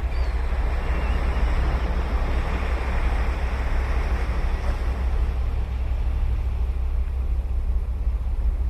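Ocean surf breaking and washing up the beach; the wash swells over the first few seconds, then eases, over a steady low rumble.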